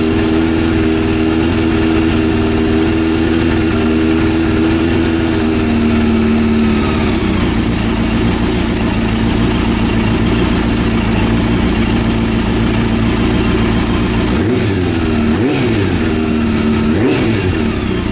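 Honda CB400 four-cylinder engine running steadily, its idle settling a little lower about seven seconds in, then revved up and down twice near the end. The previously misfiring third cylinder is now firing after its carburetor was replaced.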